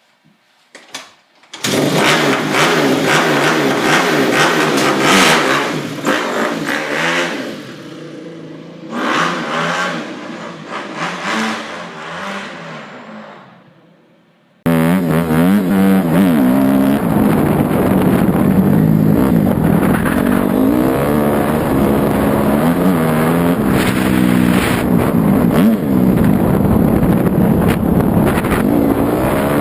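Dirt bike engine revving up and down, fading away about halfway through. It then switches abruptly to another loud, steadier engine run.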